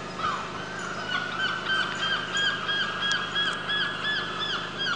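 A slow-moving train of a translator vehicle and a Class 375 unit passing, with a high squeak that repeats about three times a second from about a second in, over a low steady hum.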